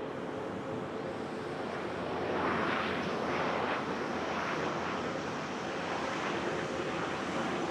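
Aircraft engines running as a plane passes on the runway: a steady rushing noise that swells for a couple of seconds about two and a half seconds in, then settles.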